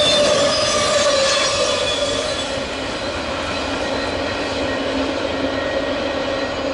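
Double-stack intermodal freight train's well cars rolling past on the rails, with steady squealing tones from the wheels. As the last car passes, the sound eases off about two and a half seconds in.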